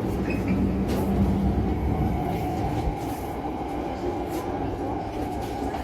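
Interior running noise of an E5 series Shinkansen: a steady low rumble with a few faint ticks.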